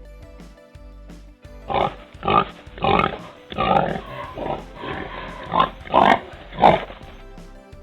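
A pig grunting over steady background music: about ten short, rough grunts in quick succession, starting about two seconds in.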